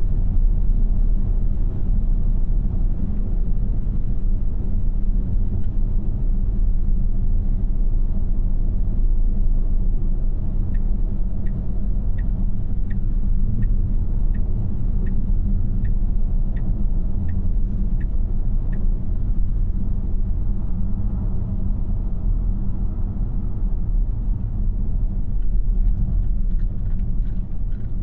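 Steady road and tyre rumble inside the cabin of a 2026 Tesla Model Y AWD on the move. Partway through, an even ticking of about three ticks every two seconds runs for some eight seconds, typical of the turn-signal indicator.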